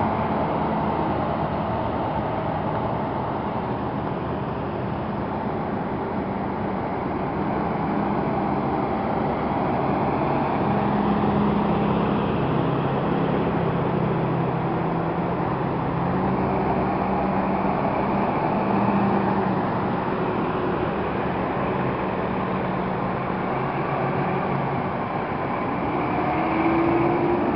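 Diesel engines of fire trucks running as a convoy of fire apparatus drives past, a steady mix of engine hum and road noise with no siren. One engine's pitch rises slightly near the end.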